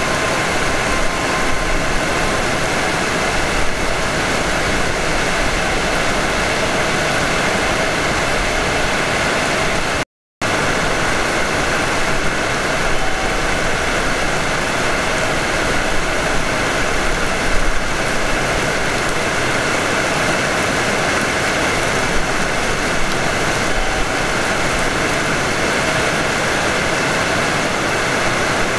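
Steady running noise of a Hanshin 5500 series electric train heard from the cab, an even rushing sound. The sound cuts out completely for a moment about ten seconds in.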